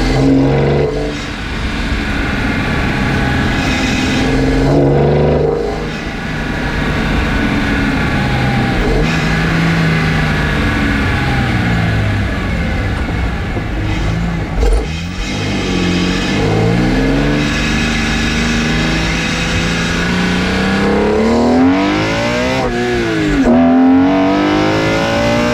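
BMW E46 engine heard through its carbon-fibre intake plenum and printed nylon intake while the car is driven. The engine note rises and falls with the throttle. About three quarters of the way in a full-throttle pull sends the pitch climbing steeply, and it drops sharply at gear changes.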